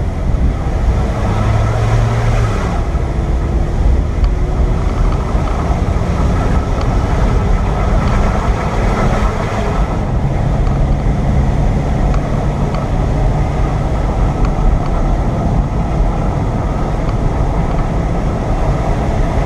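Car engine pulling up a steep mountain pass, heard from inside the cabin under steady road and wind noise, its note shifting now and then.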